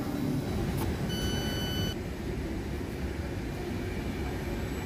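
Trains standing at a station platform: a steady low rumble. About a second in, one short electronic beep sounds for under a second.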